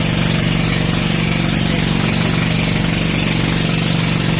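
Engine running steadily at an unchanging speed: a strong, even hum with a hiss over it.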